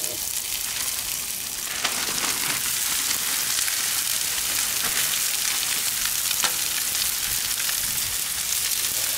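Coated chicken tenders sizzling in oil on a hot propane flat-top griddle as they are tipped out of a bag onto the steel, a steady hiss that grows louder about two seconds in.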